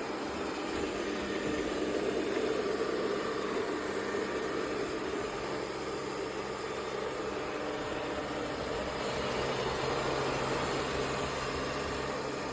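Yeedi M12 PRO+ robot vacuum docking station running with a steady mechanical whirr that swells slightly a couple of times.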